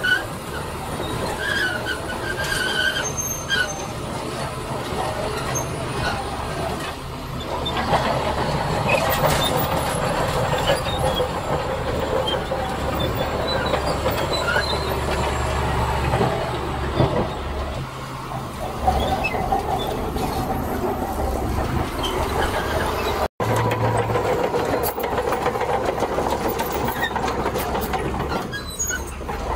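Heavy earthmoving machinery at work: diesel engines running steadily under load, with metallic squeals and clanks. The sound drops out for an instant about 23 seconds in.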